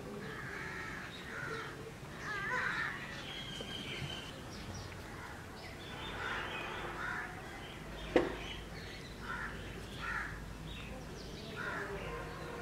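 Birds calling every second or two. One sharp click comes about eight seconds in.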